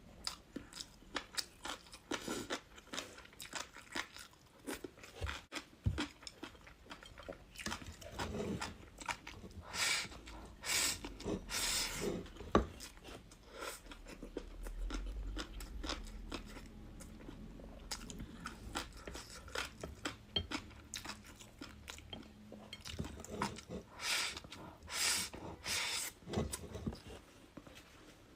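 A person chewing crunchy food close to the microphone, with repeated crisp crunches and bites; the crunching gets louder twice, about ten seconds in and again near the end.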